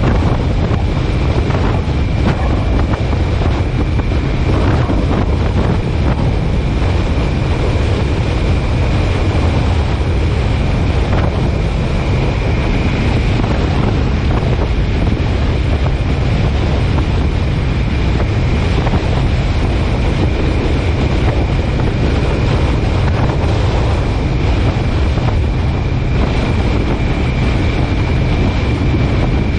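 Steady road and wind noise of a car on the move, a heavy low rumble with wind buffeting the microphone and a faint steady whine above it.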